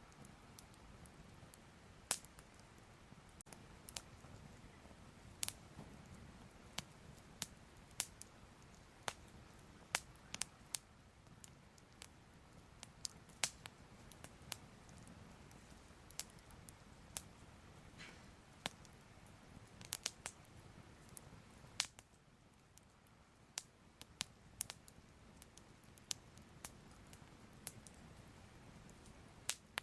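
Soft fire crackling: irregular sharp pops and snaps, several a second at times, over a low steady rumble.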